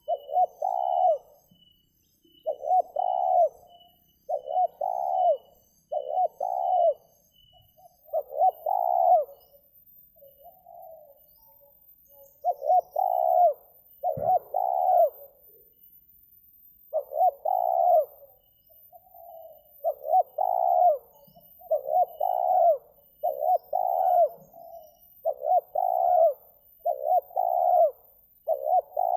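Spotted doves cooing: short repeated coo phrases, each about a second long, coming one after another every couple of seconds with a few longer pauses.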